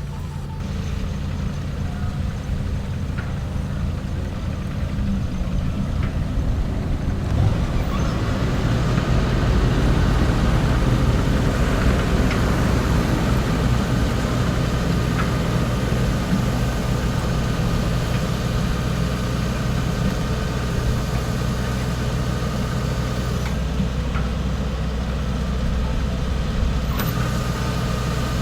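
Rice combine harvester's diesel engine running steadily. It gets louder about a quarter of the way in and then holds.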